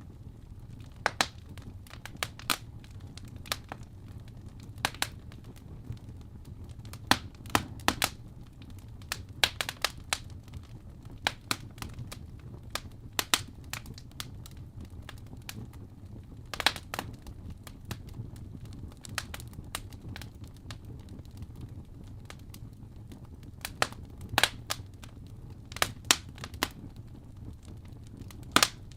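Fire crackling: irregular sharp pops and snaps, a few loud ones among many small ones, over a steady low rumble.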